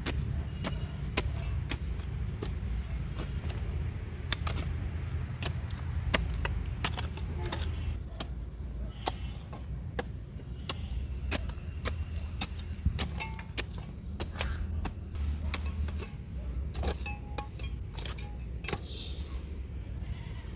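Many irregular sharp clicks and knocks, as of things being handled and struck, over a low steady rumble.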